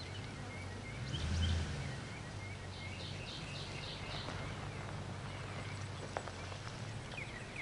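Outdoor background: a steady low hum with a louder low rumble about a second in, and a bird chirping in a quick series of short calls in the middle. A single sharp tick near the end.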